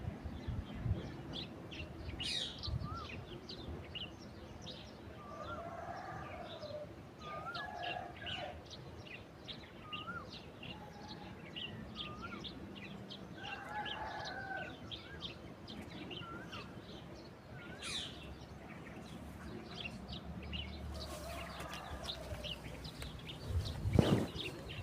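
Small birds chirping steadily in quick, short high notes, with a short rising whistle repeated about every two seconds and a few lower, longer calls at intervals. A low thump comes near the end.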